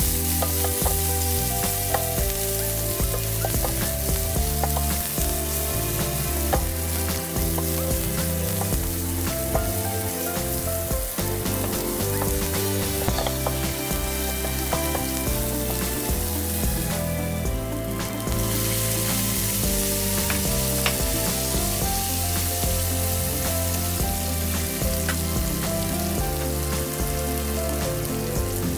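Garlic, onion and tomato sizzling in hot oil in a frying pan, stirred and scraped with a wooden spatula. The sizzle drops away briefly about seventeen seconds in, then carries on.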